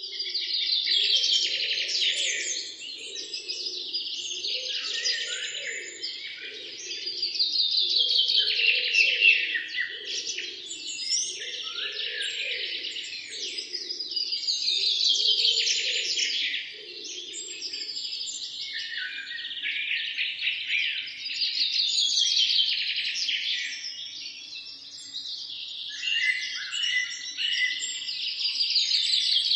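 Birdsong: dense chirping and trilling phrases that swell and fade every few seconds. A fainter low pulsing sound runs under the song and stops about two-thirds of the way through.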